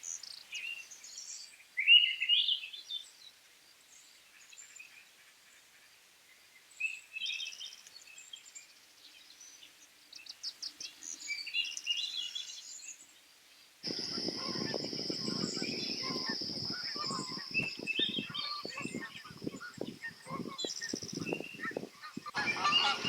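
Small birds chirping and calling, with a louder rising call about two seconds in. About two-thirds of the way through, the sound changes abruptly to a steady high-pitched buzz over irregular knocking and rustling, with more bird calls.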